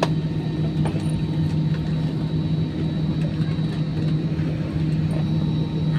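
Steady cabin noise inside an Airbus A320 on the ground after landing, its engines at idle: a constant low hum with a thin steady high tone above it. A couple of light clicks come in the first second.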